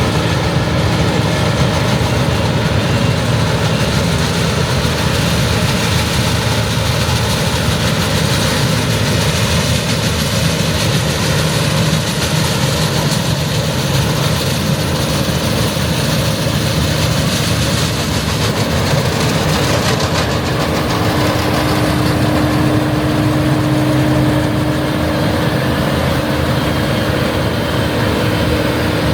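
Heavy diesel harvest machinery running steadily: a continuous low engine drone, with a steady hum that grows stronger past the middle.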